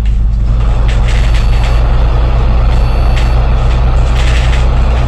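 Bus engine running under load, heard from inside the bus: a steady low drone with a rush of noise that builds about half a second in. Two short, high, thin electronic tones sound about a second in and again about three seconds in.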